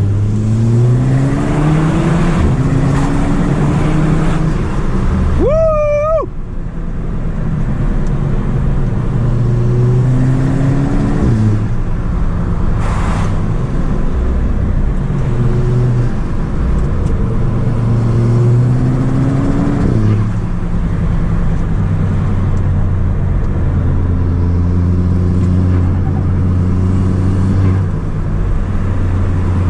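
Audi S3 8P's turbocharged 2.0 TFSI four-cylinder, fitted with a downpipe, pulling hard several times: the revs climb in pitch and drop back at each shift or lift. A brief high-pitched squeal comes about six seconds in.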